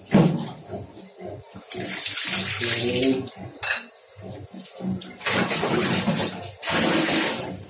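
Water pouring and splashing in uneven bursts, with a sharp splash right at the start and longer runs of pouring in the middle and toward the end.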